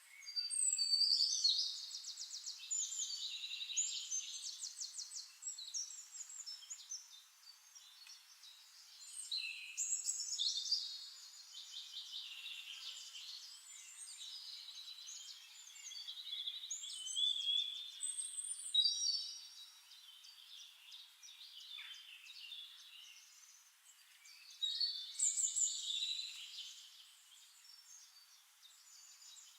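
Songbirds singing: bursts of fast, trilling song every few seconds, high-pitched, with quieter chirping between the bursts.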